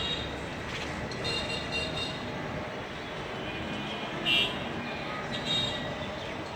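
Steady road-traffic noise, with a few short high-pitched chirps over it, the loudest about four seconds in.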